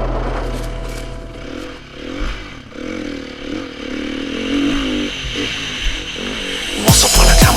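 Dirt bike engine revving up and down as the bike is ridden. Music fades out early on, and loud bass-heavy electronic music starts near the end.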